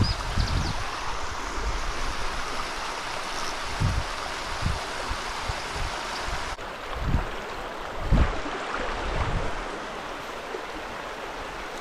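Small mountain stream running over rocks: a steady rush of water, with occasional low bumps.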